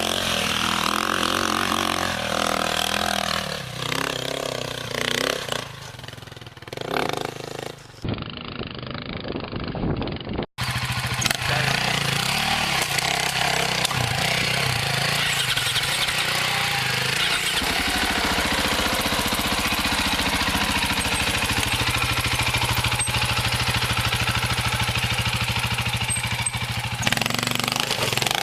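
Dirt bike engines running and revving, broken by abrupt cuts in the first ten seconds or so, then a steady engine note with hiss over it.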